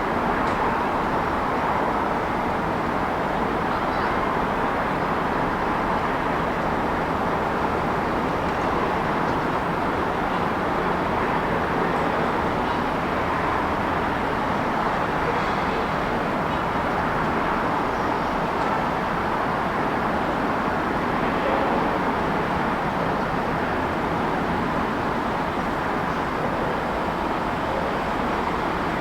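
City street ambience: a steady, continuous wash of road traffic noise with no single event standing out.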